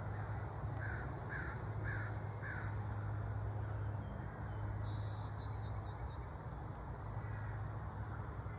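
A bird calling four times in quick succession, short calls about half a second apart starting about a second in, over a steady low hum. A brief run of higher, quicker chirps follows about five seconds in.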